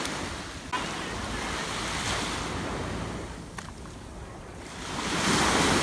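Sea waves washing onto a sandy beach, the surf swelling and ebbing a few times with the biggest surge near the end, with wind buffeting the microphone.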